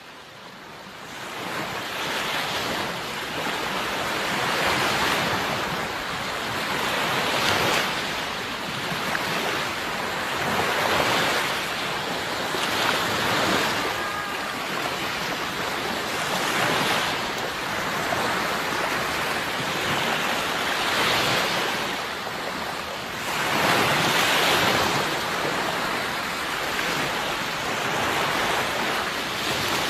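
Sea waves breaking and washing in, the surf swelling and easing every two to four seconds. The sound fades up from silence at the start.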